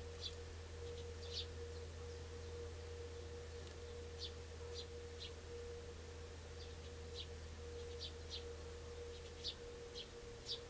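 Short, high bird chirps, about a dozen at irregular intervals, over a steady low hum and a constant mid-pitched tone.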